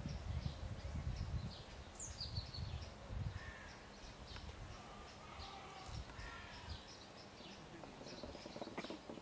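Birds chirping and calling in short, quick notes, with a low irregular rumble under them for the first few seconds.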